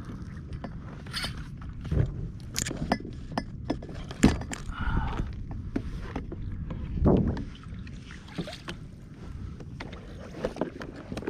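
Irregular knocks and clatter on a fishing kayak, with three heavier thumps, over a steady rumble of wind and water.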